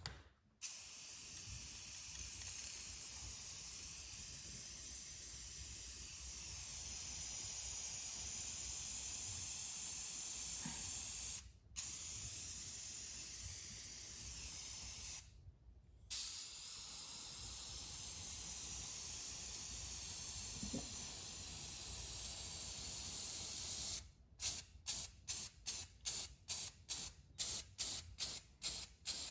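Aerosol can of clear gloss spray coating spraying in three long bursts with brief pauses between them, then a quick run of short spurts, about three a second, near the end.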